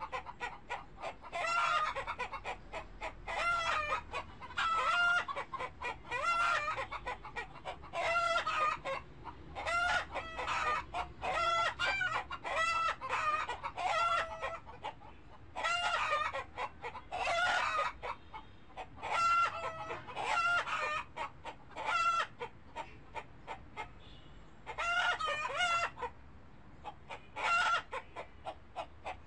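Animal calls, most likely from birds: many short pitched cries repeated about once a second, sometimes in quick runs, with brief pauses between groups.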